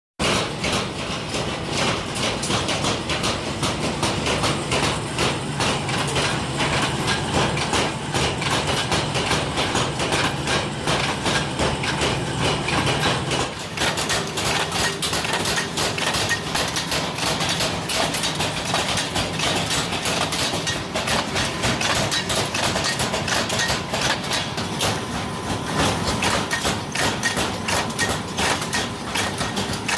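Factory machinery running, with rapid, repeated metal strikes of hammering over a steady machine hum. The hum shifts about 13 seconds in.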